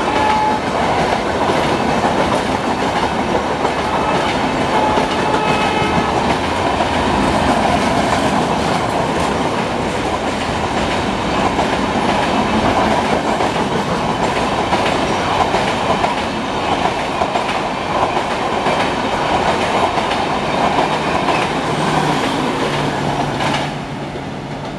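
Passenger express coaches rushing past at speed: a steady rush of wheel and rail noise with clickety-clack over the rail joints. A horn note dies away right at the start, and the noise falls off sharply near the end as the last coach goes by.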